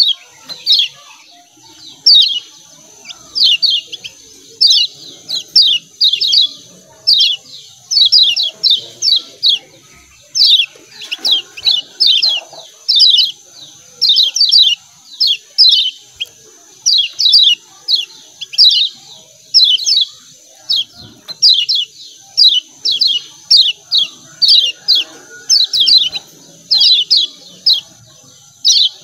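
Kecial kuning (Lombok white-eye) giving rapid 'ciak ciak' chip calls: short, sharp, falling chirps in quick clusters of two to four, repeating without pause, over a steady high-pitched whine.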